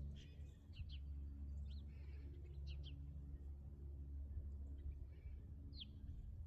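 Small birds chirping outdoors: short, quick high chirps, a few in a cluster early on and scattered singles later, over a steady low rumble.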